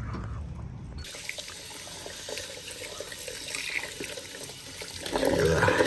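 A tap turned on about a second in, water running into a sink while hands are washed under it. The splashing gets louder near the end.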